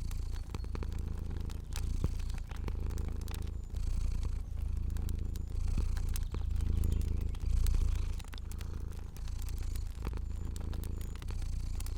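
Cat purring in a steady low rumble that swells and dips every second or two, with light scattered crackles of a fire.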